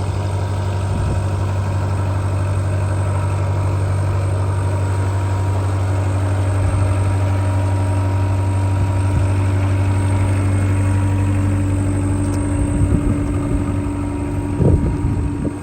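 Caterpillar skid-steer loader's diesel engine running steadily, its tone shifting slightly about five seconds in, with a few short knocks near the end.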